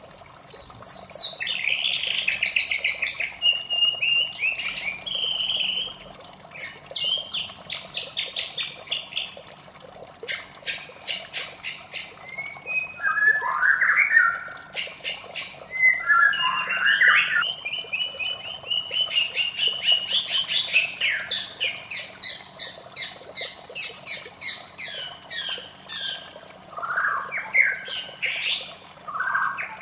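White-rumped shama singing a long, varied song of clear whistles, rapid repeated notes and trills, phrase after phrase with only short pauses.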